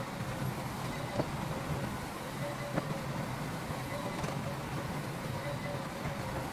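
Heavy diesel earthmoving machinery running steadily with a low-pitched drone, with two short, sharp knocks about a second and a half apart.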